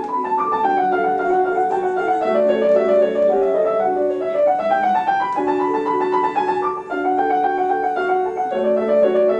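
Piano playing a classical passage: a legato melody in the upper register over quick, evenly repeated accompaniment notes below.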